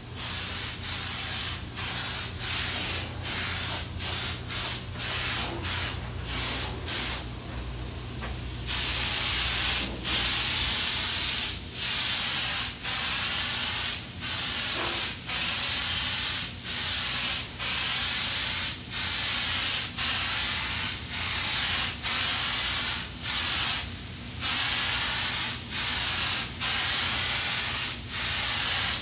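Paint spray gun hissing in repeated bursts as the trigger is pulled and released, laying a second coat of paint. The bursts are short and quieter at first, then about a third of the way in they become louder, about one a second. A steady low hum runs underneath.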